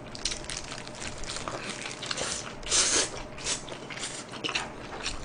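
A man chewing a bite of sauce-glazed fried chicken close to the microphone: irregular wet mouth clicks and smacks, with a louder rush of noise near the middle.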